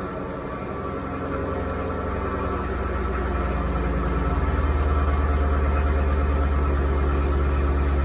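2019 Chevrolet Camaro SS's 6.2-litre LT1 V8 on its stock exhaust, idling steadily just after being started. The low rumble grows a little louder about halfway through.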